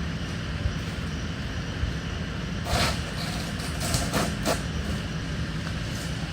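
A steady low outdoor rumble, with a few sharp knocks and scrapes in the middle as heavy debris is handled and loaded onto a truck.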